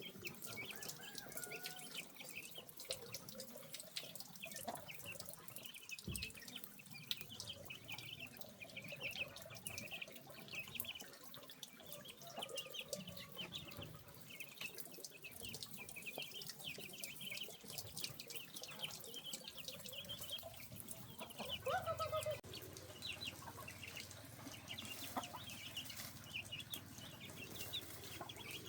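Chickens clucking, with short high chirps repeating throughout and a faint trickle of water; one louder, falling call about 22 seconds in.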